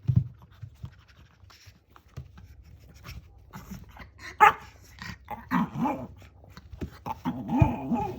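Shih Tzu making its 'gao' roar, a playful growl-like vocalization: two short, wavering vocal grumbles in the second half, after a sharp click about four and a half seconds in.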